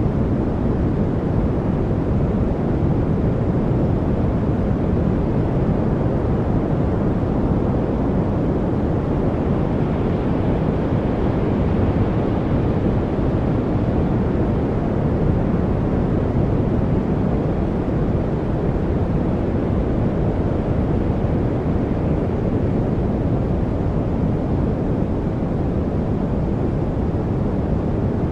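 Steady noise for studying, weighted toward the low end: a deep, even rush with no distinct events, tones or changes.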